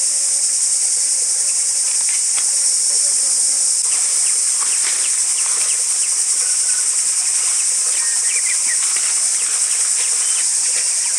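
Steady, loud, high-pitched drone of a forest insect chorus, with a few faint short chirps in the second half.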